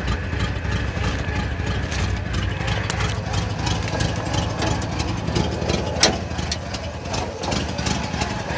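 Chevrolet Monte Carlo engine idling steadily after its first start of the spring, running smoothly now. A single sharp click sounds about six seconds in.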